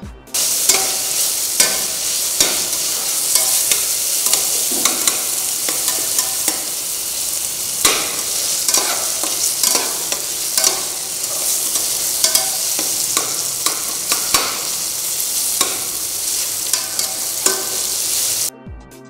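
Chopped shallots and tomatoes sizzling in hot oil in a stainless-steel pressure cooker, with a perforated steel spatula scraping and clicking against the pot as it stirs. The sound starts abruptly about half a second in and cuts off shortly before the end.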